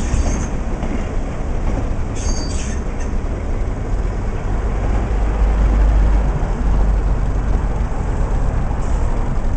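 A train running on the track with a heavy steady rumble, brief high squeals of wheels on rail about two seconds in, and the low rumble swelling louder around the middle.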